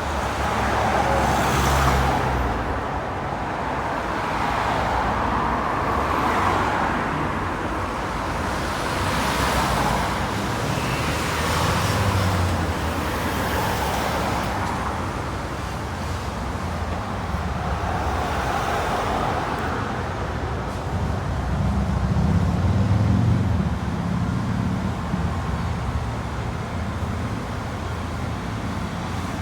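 Road traffic: a string of vehicles passing one after another, each swelling and fading with tyre noise, and a heavier vehicle's low engine rumble, the loudest moment, about three quarters of the way through.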